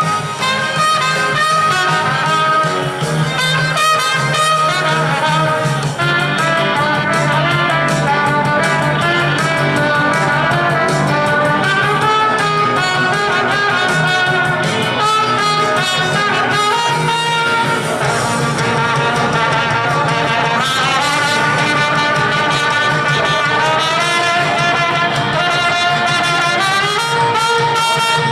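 Trumpet playing a melody over an upbeat band backing track with a steady drum beat.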